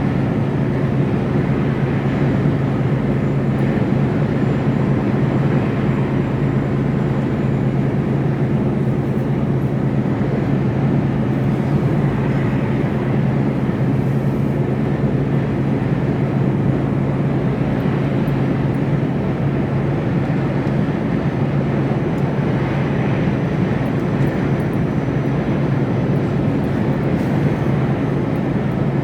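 Mercedes Actros lorry's diesel engine droning steadily while cruising on the motorway, heard inside the cab together with road noise.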